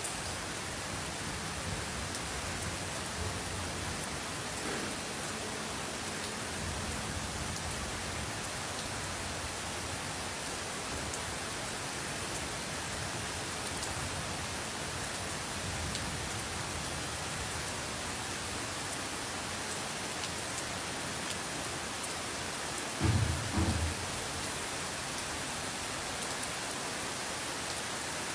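Steady, even hiss with no clear pattern, interrupted by two brief low thumps about 23 seconds in.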